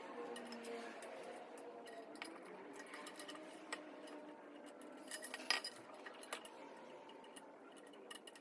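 Light metallic clinks and taps of tools and exhaust parts being handled during a motorcycle exhaust swap, scattered and irregular, with one sharper clink about five and a half seconds in.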